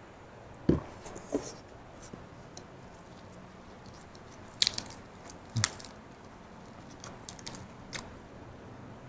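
Close-miked chewing and crunching of a mouthful of raw vegetables, with a few sharp crisp crunches, the loudest about a second in and twice around the middle.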